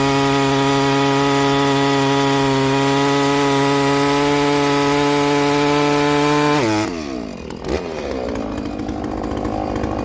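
Two-stroke chainsaw held at full throttle cutting hardwood, its pitch steady, then the throttle released about seven seconds in so the revs drop quickly to a lower running note, with a short thump soon after.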